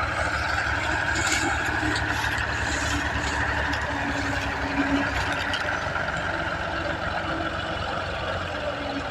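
Tractor's diesel engine running steadily, a continuous low drone.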